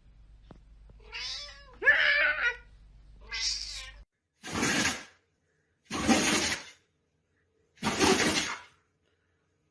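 A cat meowing three times in short calls that bend in pitch, the middle one the loudest. It is followed by three harsh, breathy bursts at even spacing, about every second and a half to two seconds.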